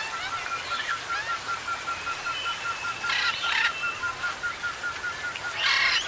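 Forest birds calling: one bird repeats a short note about five times a second at a steady pitch, while another gives harsh, rasping calls twice, about three seconds in and near the end.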